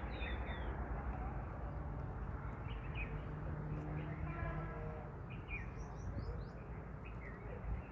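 Steady wind noise with small birds chirping now and then. About three and a half seconds in, a low steady tone lasts for about a second and a half.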